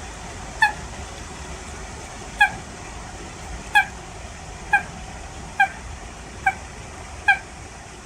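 Eurasian coot calling: seven short, sharp, pitched calls at roughly one-second intervals, over steady background noise.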